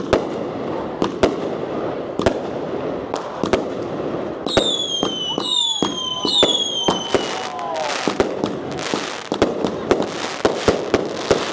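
Fireworks and firecrackers going off: sharp bangs throughout, three falling whistles from whistling fireworks about halfway through, then dense crackling bursts.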